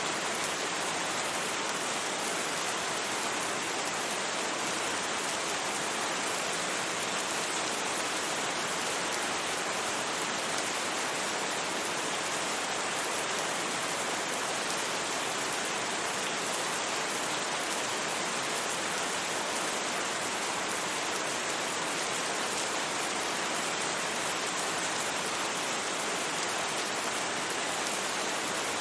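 Steady rain falling on a surface, an even hiss without thunder or distinct drops standing out.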